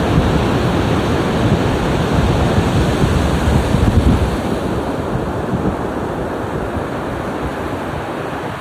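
Ocean surf: waves washing in with a steady rush, swelling to a peak about four seconds in and then easing off.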